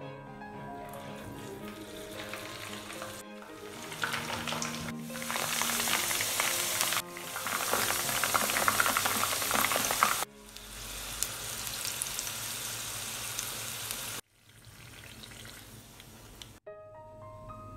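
Whole okra pods sizzling as they fry in hot vegetable oil in a pan. The sizzle is loudest through the middle and drops suddenly twice. Background music with a tune plays at the start and again near the end.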